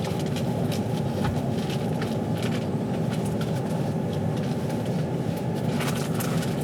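Steady running rumble of a passenger train heard from inside the carriage, with faint irregular ticks and clicks over the top.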